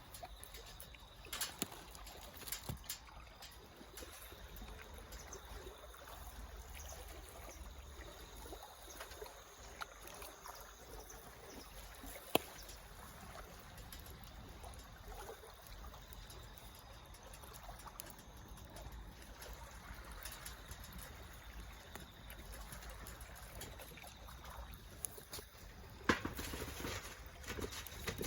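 Wood fire in a home-made pail-can fire pit burning with a steady hiss and scattered sharp crackles and pops, the sharpest about halfway through and a run of them near the end.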